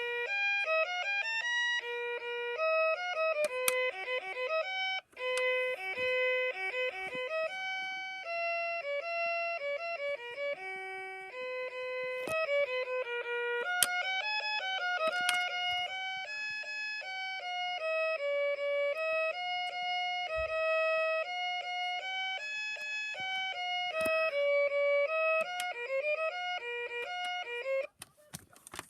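Electronic toy playing a tune through its small speaker: a single line of bright, stepping notes that runs on without a break.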